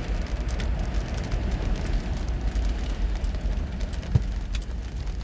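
Low road rumble inside a moving car with its windows down, with big raindrops striking the windshield as scattered sharp ticks. One louder knock about four seconds in.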